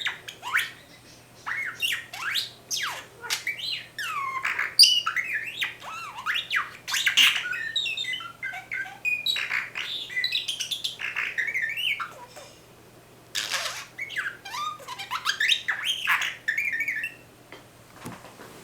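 Budgerigar imitating R2-D2: runs of quick rising and falling whistles, chirps and clicks, with a short pause a little past halfway and a stop near the end.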